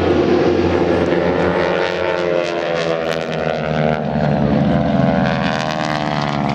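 Propeller airplane flying past, its engine note falling in pitch as it goes by.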